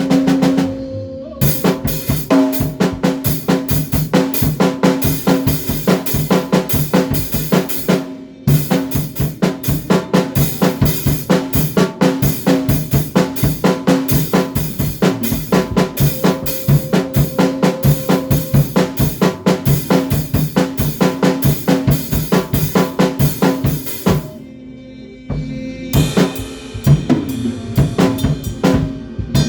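A band rehearsing: a drum kit playing a fast beat with snare, kick and cymbals over sustained low bass notes. The playing drops out briefly a few times before picking up again.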